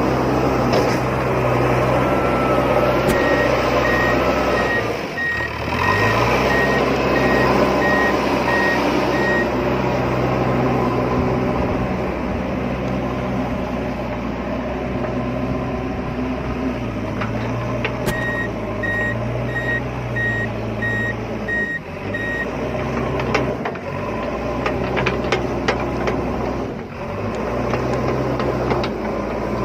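Motors of a remote-control toy construction vehicle humming steadily, the pitch bending and briefly dropping out several times as it starts and stops. A rapid beep-beep warning tone like a reversing alarm sounds in two stretches, one starting a few seconds in and lasting about six seconds, the other a little past the middle lasting about four.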